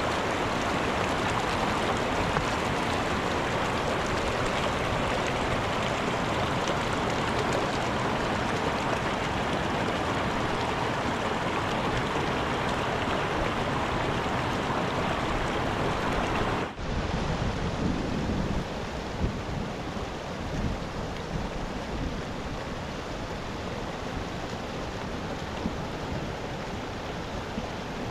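Rushing mountain river water, a steady rush. About 17 seconds in the sound cuts abruptly to a quieter, duller rush of water with a few faint low knocks.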